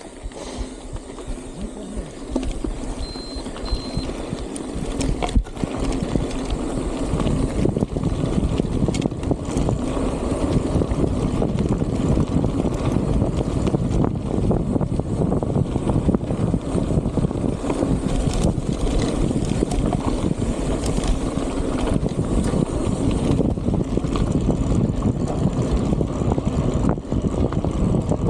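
Strong wind buffeting the microphone, a steady low rushing roar that grows louder over the first several seconds and then holds.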